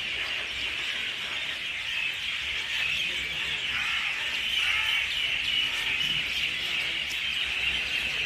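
Dense, unbroken chorus of a large flock of birds: many overlapping high chirps and calls at once.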